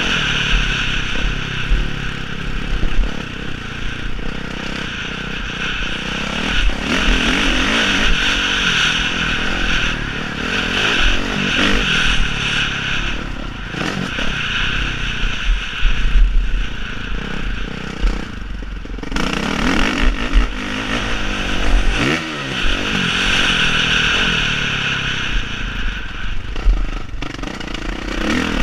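Motocross dirt bike engines revving hard, the pitch rising and falling again and again as the throttle opens and closes, with some clatter.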